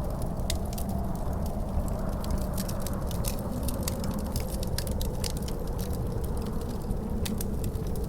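Wood fire in a fireplace crackling, with many sharp pops, over a steady low rumble and a faint, wavering howl of wind.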